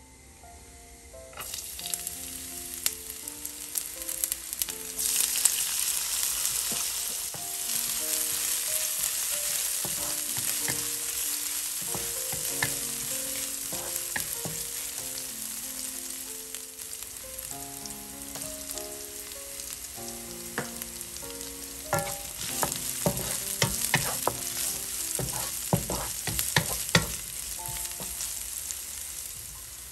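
Chopped garlic, ginger and scallions sizzling in hot oil in a nonstick wok, stirred with a wooden spatula that clicks and scrapes against the pan. The sizzle starts about a second in and gets louder a few seconds later, with a flurry of spatula clicks near the end.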